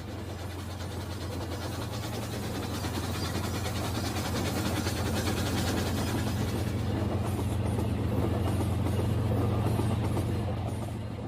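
Rail King battery-powered toy train running on its plastic track: a steady motor hum with rapid clattering of the wheels, growing louder and then fading near the end as it passes.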